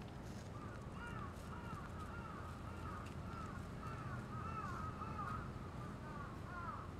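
A bird calling over and over in a quick run of short notes that rise and fall in pitch, over a steady low hum of city background.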